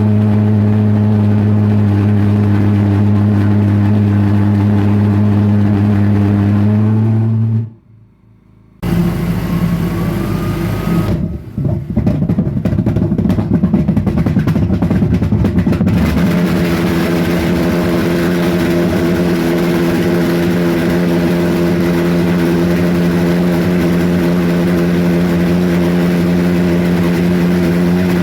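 Homemade pulsejet engine running with a loud, steady buzzing drone. The sound cuts out near 8 seconds, comes back as rough, uneven noise for several seconds, then settles into a steady drone at a higher pitch from about 16 seconds.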